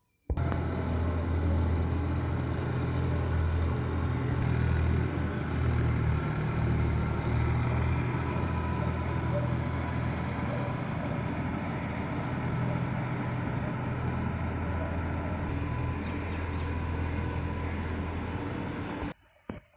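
Engine of a land-tilling machine running steadily, starting abruptly just after the beginning and cutting off suddenly near the end.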